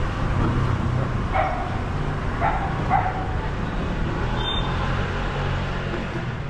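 Low, steady rumble of a car engine close by, fading a little near the end. Three short, sharp calls sound between about one and three seconds in.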